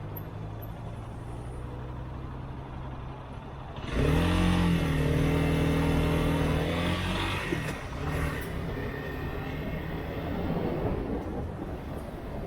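Motorcycle engine running steadily at low revs. About four seconds in it turns suddenly louder, rises in pitch as it revs up, holds for a few seconds, then eases off.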